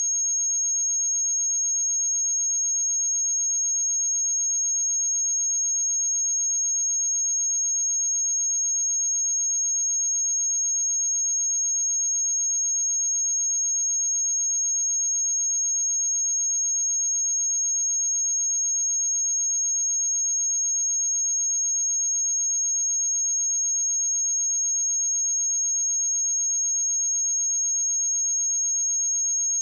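A steady, unbroken 6523 Hz pure sine-wave test tone, a single high-pitched whistle at constant level.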